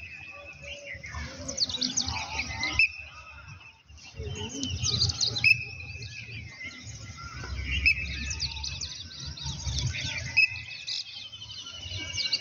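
Many birds chirping and calling. One call held on a single pitch comes back every few seconds, with a low rumble underneath.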